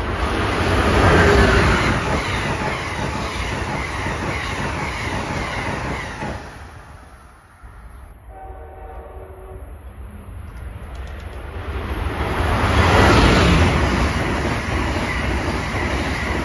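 An Amtrak train hauled by an ACS-64 electric locomotive runs through the station at speed, its rush of wheels and air swelling and fading over about seven seconds. In the lull a train horn sounds one chord for about a second and a half, then a second passenger train rushes past, loudest a little before the end.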